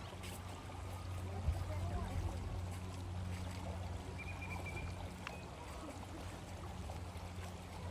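Outdoor lakeside ambience: a steady low rumble with faint distant voices. A brief high chirp comes about four seconds in, and a single light click comes a second later.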